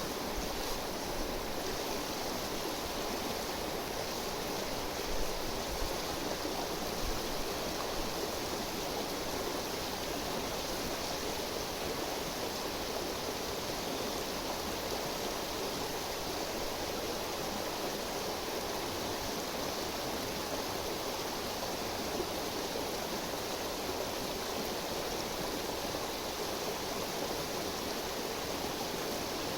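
Steady rushing murmur of a river flowing over stones, with a couple of faint pops about five and seven seconds in.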